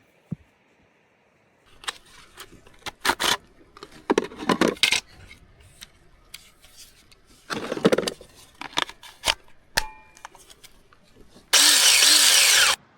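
A run of clinks and knocks from gear being handled, some with a duller thud, then a loud rushing hiss for about a second near the end that stops abruptly.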